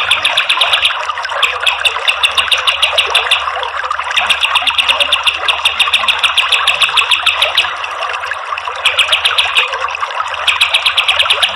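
Kapas tembak bird singing in rapid-fire trilled bursts, each one to three seconds long with short breaks, over a steady rushing background hiss.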